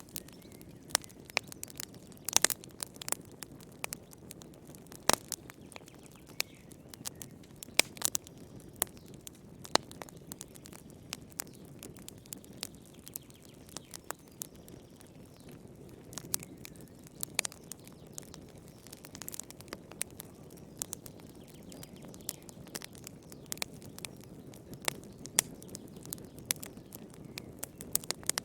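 Wood fire burning in a fireplace: a steady low hiss with many sharp, irregular pops and crackles.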